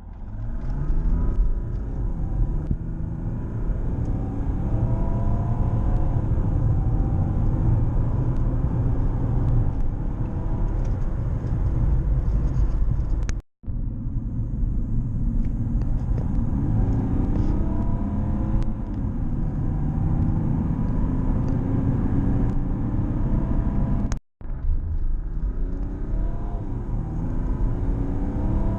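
Mercedes E320 CDI turbodiesel accelerating hard, its engine pitch rising through each gear and dropping back as the automatic gearbox shifts up. The sound breaks off twice into a brief silence. At 206,000 miles the gearbox is a little slow to shift.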